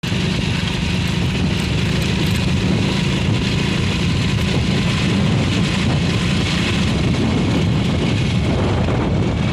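A motor vehicle's engine running steadily under a rushing noise, starting abruptly at full level.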